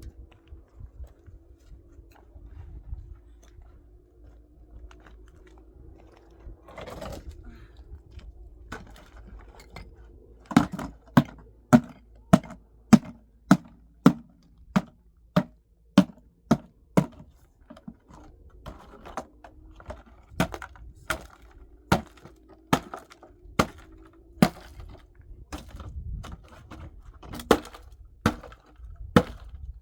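Repeated sharp knocks, like blows struck in manual work, coming at about two a second from about ten seconds in after a few scattered knocks. A faint steady hum runs underneath.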